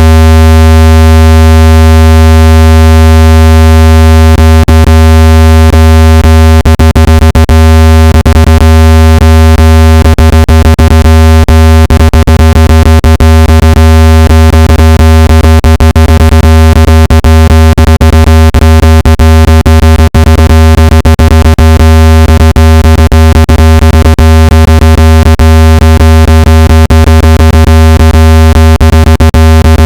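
Loud, steady low synthetic buzz tone with a stack of overtones, generated to vibrate water out of a speaker. From about four seconds in it is broken by many brief clicks or dropouts.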